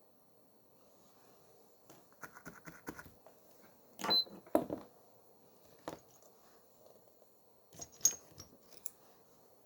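Scattered small clicks and light metallic taps of tools and small parts being handled, in short clusters about two, four and eight seconds in, the loudest about four seconds in.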